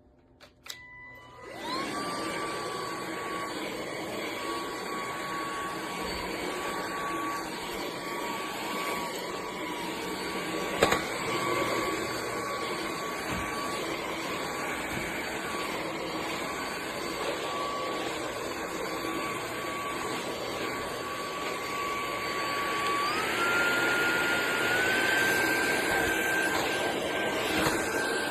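iXlion cordless stick vacuum switched on with a couple of clicks and running with a steady motor whine. Near the end the whine steps up in pitch twice. There is a single sharp click a little before the middle.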